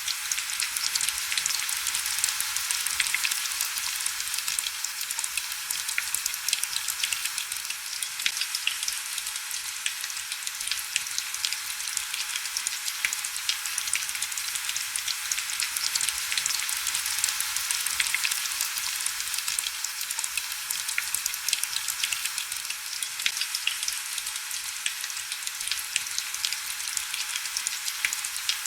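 Heavy rain: a steady hiss dense with small crackling drop taps, with almost no low rumble.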